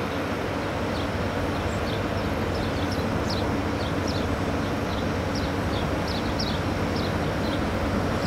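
A train running with a steady rumble that slowly grows louder, while birds chirp again and again in short falling notes.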